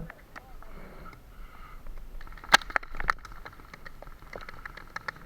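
Two sharp paintball marker shots about half a second apart near the middle, followed by a scatter of fainter pops and clicks from shots further off.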